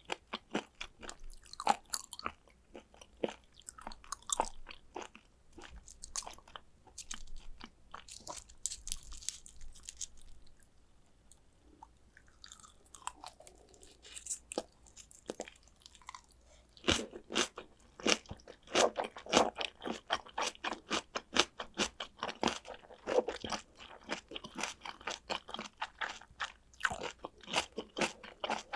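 Close-miked chewing of raw tuna sashimi: rapid wet clicks and smacks of mouth and teeth. It eases off for several seconds about ten seconds in, then resumes denser and louder.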